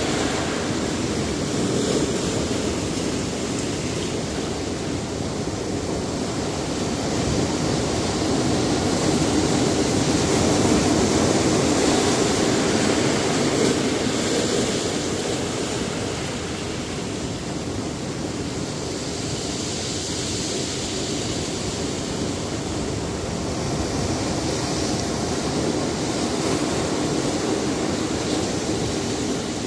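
Sea surf breaking on a rocky shore: a continuous wash of waves that swells and eases, loudest a little under halfway through.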